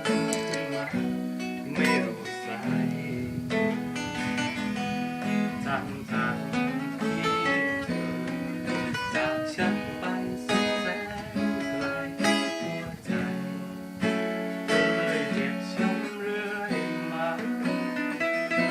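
Music: an acoustic guitar strummed and picked.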